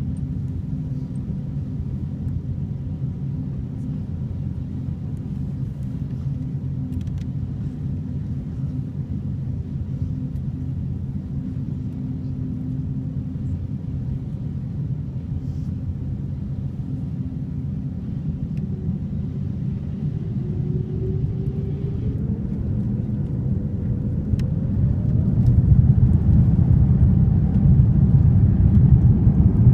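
Airbus A350's Rolls-Royce Trent XWB jet engines, a steady low rumble. About twenty seconds in a whine rises in pitch, and a few seconds later the rumble grows clearly louder, as takeoff thrust builds.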